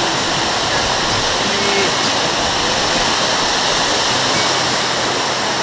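Waterfall running, a loud, steady rush of falling water.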